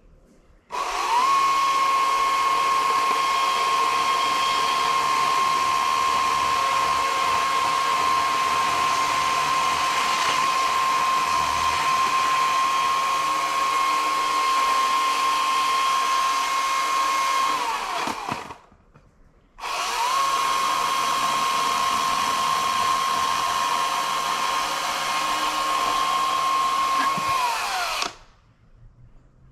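EGO CS2005 20-inch battery chainsaw's electric motor running at full speed with a steady high whine, in two long runs with a short pause about 18 seconds in; each run spins up at the start and winds down at the end.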